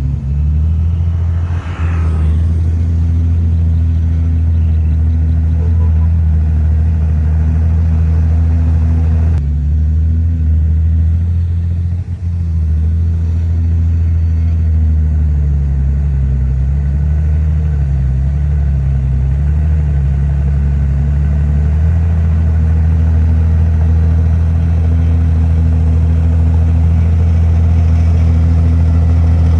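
Heavy diesel engine of earthmoving machinery running steadily under load, its pitch dipping and rising a few times around the middle.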